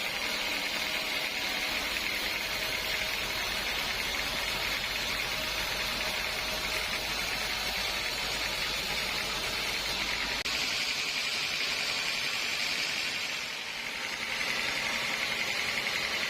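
Sawmill saw cutting through a large teak log, a steady high-pitched hiss of the cut. A low hum drops away about ten seconds in, and the sound dips briefly a few seconds later before resuming.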